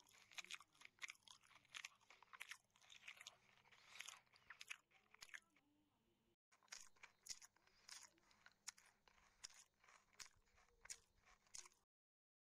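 Close-up, faint chewing and crunching of fried pork and fresh greens, many quick moist clicks and crackles. There is a brief break about halfway, and the sound cuts off abruptly near the end.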